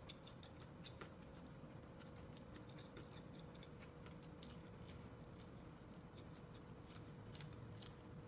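Faint, irregular crisp clicks of cooked corn kernels being bitten off the cob and chewed, over a faint steady hum.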